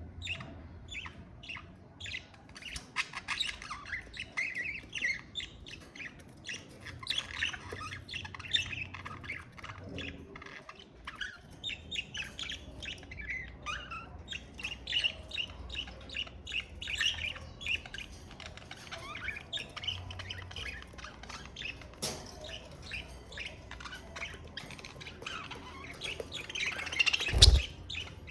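Budgerigars chattering and chirping, with many short warbles and squawks overlapping. A single loud thump comes near the end.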